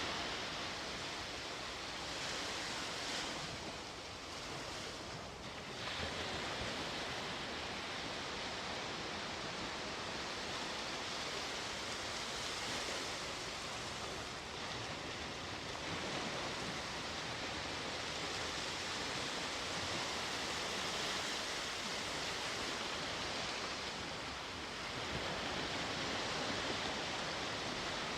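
Sea waves breaking and washing on the shore in a continuous hiss, swelling and easing every few seconds.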